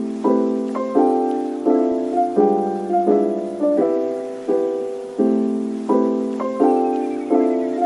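Background piano music: soft chords struck about twice a second, each ringing and fading.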